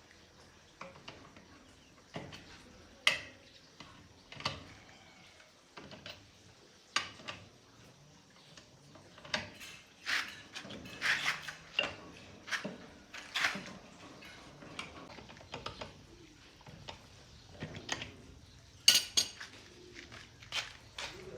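Irregular metallic clinks and clicks of hand tools and metal engine parts being handled and set down, busiest in the middle, with the sharpest clink near the end.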